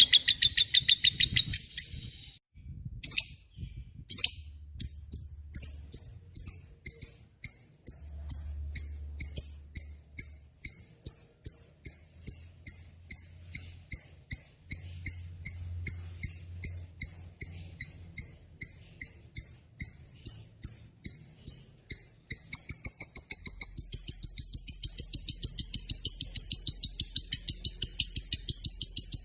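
Lovebird singing a long chattering 'ngekek' song: sharp, high chirps repeated a few times a second, after a brief pause near the start, then speeding up into a fast, continuous chatter near the end.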